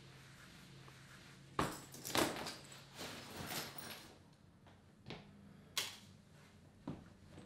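Someone moving about a small room: two sharp knocks and bag and clothing rustling as a backpack comes off and is set down, then a few lighter clicks and taps. A faint low hum runs underneath.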